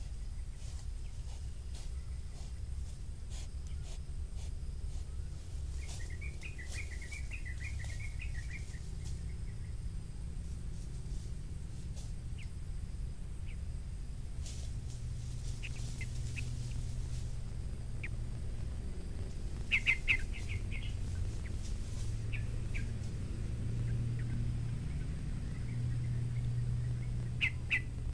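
Birds chirping over a low steady outdoor rumble: a quick run of chirps about six seconds in, then short clusters of calls around twenty seconds and again near the end.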